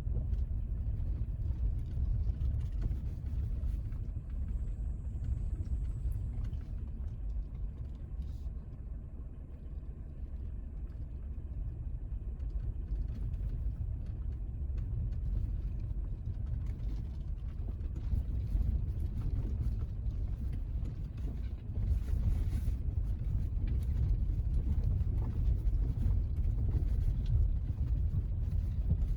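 Car driving down a steep unpaved road, heard from inside: a steady low rumble of tyres and engine, with a few faint knocks.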